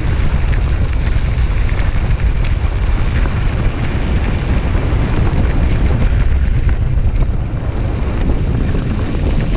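Steady wind buffeting the microphone of a camera riding on a moving bicycle, with a few faint rattles and ticks from the bike.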